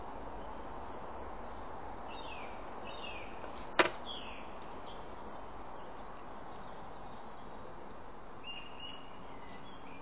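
Steady background hiss with a few faint, short, falling bird chirps, and one sharp click just before four seconds in, the loudest sound.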